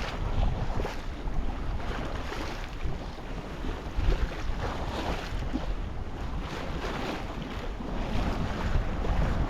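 Sailboat under way under sail, with water rushing and splashing along the hull and wind buffeting the microphone in irregular gusts.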